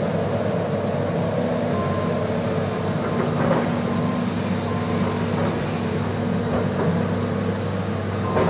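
Diesel engine of heavy earthmoving equipment running steadily, a constant low hum with no change in speed.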